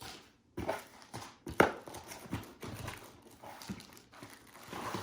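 Hard plastic vacuum parts knocking and clicking together as they are handled, an irregular run of knocks with the sharpest about one and a half seconds in.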